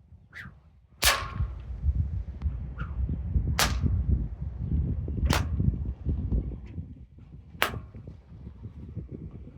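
Hybrid-style whip with a 6-foot thong cracking four times, each crack sharp, with a few fainter cracks between. Wind buffets the microphone with a steady low rumble.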